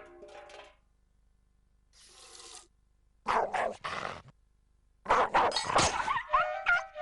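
Cartoon dog barking and growling in short bursts among cartoon sound effects, with music sliding in near the end.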